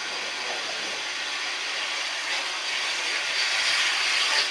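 Steam locomotive hissing steam, the hiss growing louder a little over halfway through.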